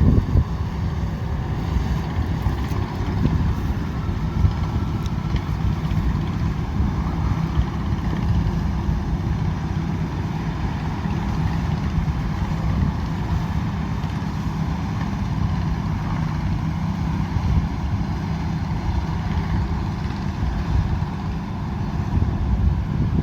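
Combine harvester running steadily, its engine and machinery making a continuous low drone.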